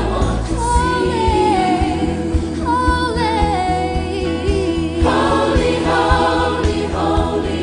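Gospel choir music: a group of voices singing a melody over a steady low instrumental backing.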